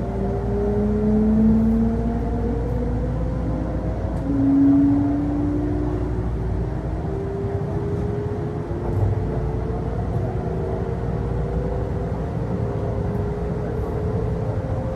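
Onboard running sound of a Kintetsu electric train: traction motor whine rising slowly in pitch as the train gathers speed, over a steady rumble of wheels on rail.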